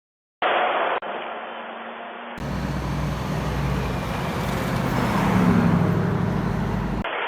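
Road traffic noise cut between clips, after a brief dead gap. About two and a half seconds in, a heavy truck's engine comes in with a deep, low rumble that grows louder as the truck drives past.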